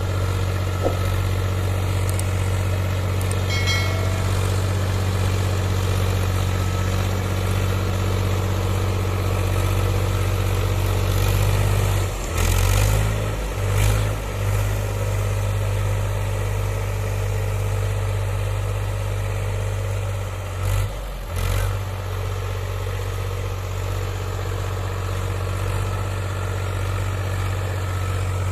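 Powertrac Euro 47 tractor's diesel engine running steadily, its note changing briefly about halfway through and again a few seconds later.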